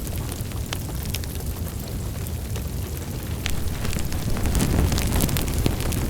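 Fire crackling in a fireplace: scattered sharp pops and snaps over a steady low rumble of the flames. The crackling grows busier and louder about four and a half seconds in.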